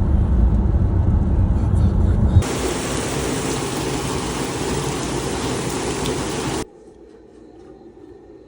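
A deep low rumble for about the first two seconds, then the steady hiss of heavy rain. The rain cuts off suddenly about a second and a half before the end.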